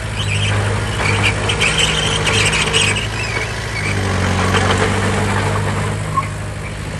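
Bulldozer's diesel engine running steadily, with a high squeal over the first three seconds or so.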